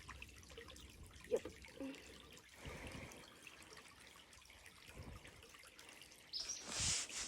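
Faint trickling creek water, with a short burst of hissing noise about six and a half seconds in.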